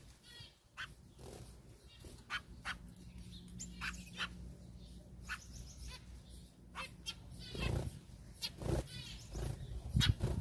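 Cage birds giving short, scattered chirps and calls, with a few louder rustling bursts about three-quarters of the way through.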